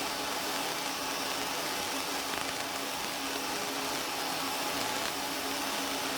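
Fiber laser engraving machine running, a steady whirring hiss with a faint low hum.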